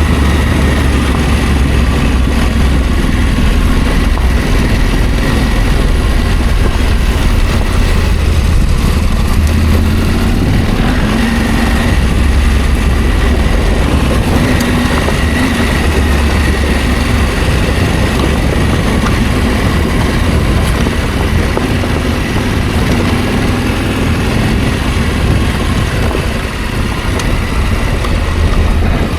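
Adventure motorcycle engine running steadily while riding, with a strong low rumble of wind on the microphone.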